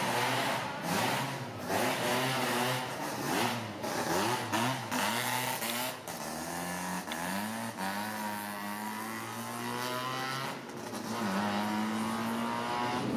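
Mazda Cosmo Sport 110S race car's twin-rotor rotary engine, revved in a series of short blips, then held at raised revs that slowly climb, with a brief dip near the end before the revs rise again.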